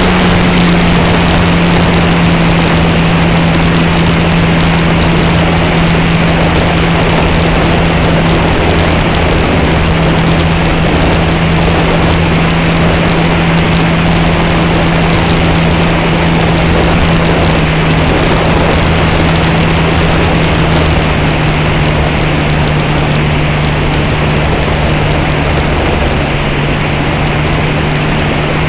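Electric motor and propeller of an E-flite Cherokee 1.3m RC plane droning steadily in flight, heard from a camera mounted on the plane under heavy wind rush. The drone's pitch sags slightly and steps down a little near the end as the throttle eases.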